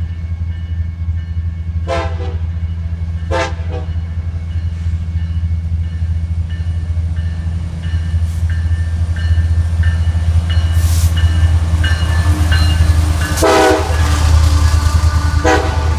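Freight train's diesel locomotive running with a steady low rumble, with four short horn blasts: two a couple of seconds in and about a second and a half apart, two more near the end.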